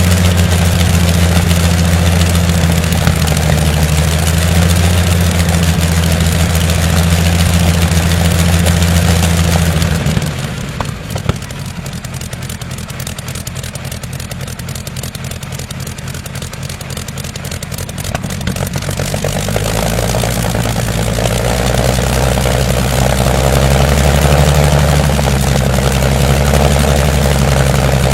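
An engine running steadily at a fast idle. About ten seconds in it drops to a slow, quieter idle with separate firing pulses, then picks up speed again from about two-thirds of the way through.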